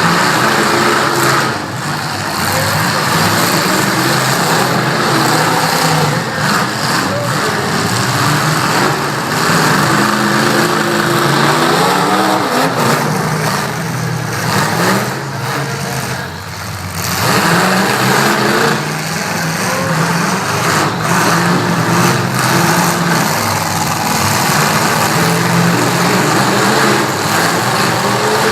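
Several demolition-derby trucks' engines running and revving at once, their pitch rising and falling, with a brief lull about two-thirds of the way through.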